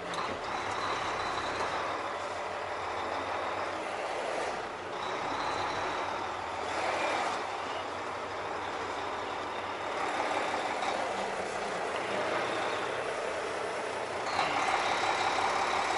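Tractor-trailer truck running while maneuvering at low speed to back into a loading dock. A thin high tone comes and goes over the steady engine and cab noise.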